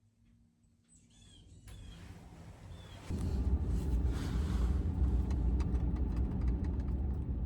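A few crow caws, then a pickup truck's engine rumble that comes in suddenly about three seconds in and runs steadily.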